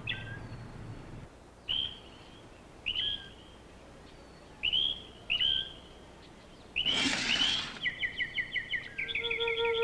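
Outdoor birds calling: about six short, sharp chirps spaced a second or so apart, then a fast run of repeated chirps. A brief rushing noise, the loudest sound, comes a little past the middle, and soft flute music enters near the end.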